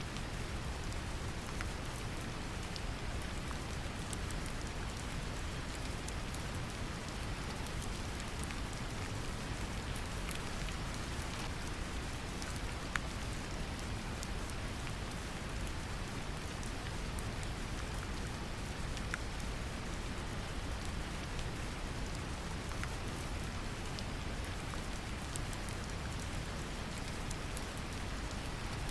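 Steady brown noise, deep and even, mixed with gentle rain: a constant hiss with scattered small raindrop ticks.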